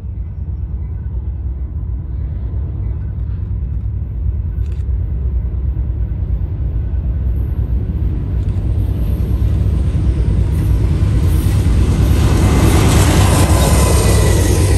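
BNSF freight train's diesel locomotives approaching: a steady low rumble that grows louder, with wheel and rail noise building about halfway through and loudest near the end as the locomotives pass close by.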